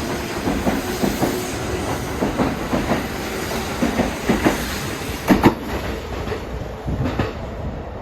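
Kintetsu train running on the rails, its wheels clattering over rail joints, with two loud knocks about five and a half seconds in.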